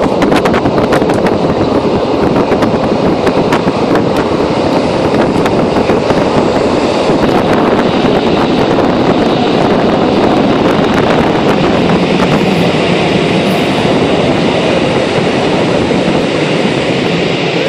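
A train running along the track, heard from on board: a steady loud rumble of wheels on rails, with many quick sharp clicks through the first half.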